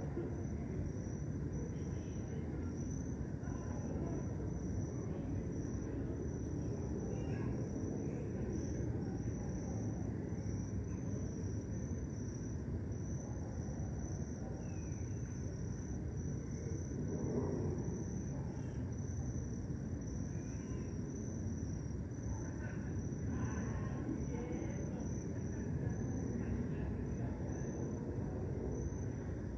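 Crickets chirping in a steady high, pulsing chorus over a low, constant background rumble, with a few faint short chirps now and then.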